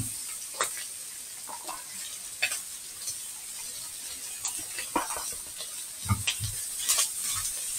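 Diced bacon, ham and mixed vegetables sizzling in a large frying pan, with a steady high hiss. Now and then a utensil scrapes and knocks against the pan as the food is stirred.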